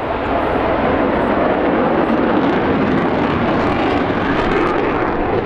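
MiG-29's twin Klimov RD-33 turbofan jet engines with a steady, loud roar as the fighter flies its display.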